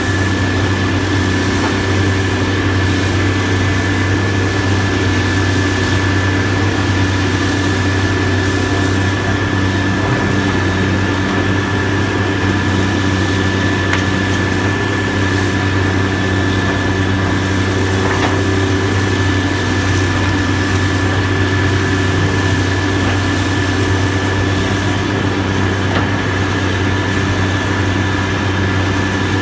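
Heavy demolition machinery's engine running steadily at a constant, idle-like speed, a low drone with a thin high whine and a few faint knocks.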